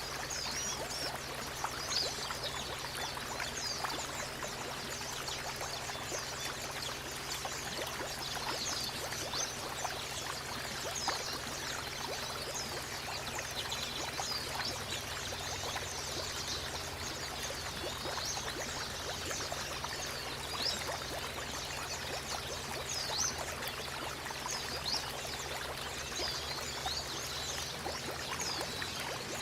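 Flowing water rushing steadily, with many short, high chirps of white-eyes (pleci) scattered over it.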